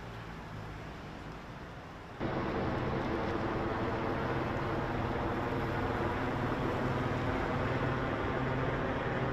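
A vehicle engine idling steadily. About two seconds in, the sound abruptly becomes louder and fuller.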